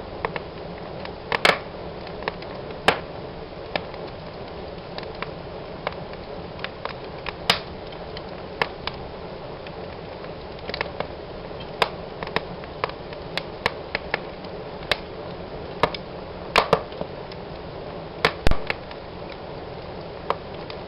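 Wood fire burning in a fireplace: a steady low hiss of flames with irregular crackles and sharp pops, a few louder snaps among them.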